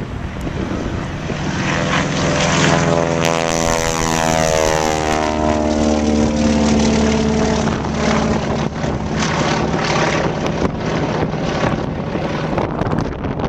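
Stearman biplane's radial engine and propeller passing by, the engine note falling in pitch as it goes past.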